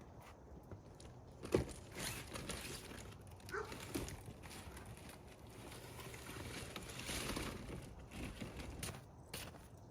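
Crunching footsteps in snow and scattered knocks and rustles from handling lightweight plastic roofing panels, with a sharp knock about a second and a half in.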